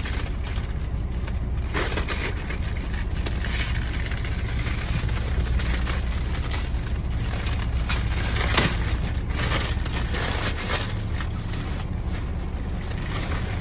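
Steady low hum of an idling engine, with scattered light knocks and rustles of things being handled.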